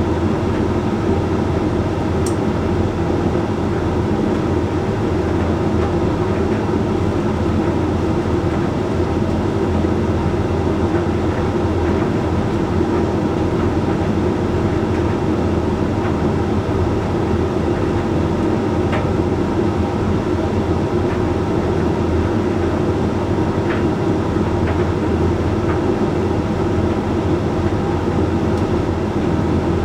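Hoover Link X Care HLX C10DRGR condenser tumble dryer running mid-cycle on a load of whites: a steady rumble of the turning drum and hum of the motor and fan. A few faint clicks sound now and then.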